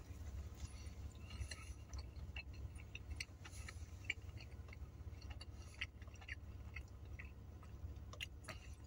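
A person chewing a bite of burger with the mouth closed: soft, irregular wet clicks and smacks, faint over a low steady hum.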